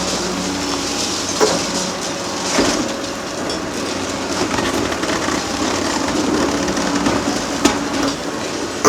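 Hydraulic demolition excavator running steadily while concrete is crunched and broken, with a few sharp knocks and clanks of debris.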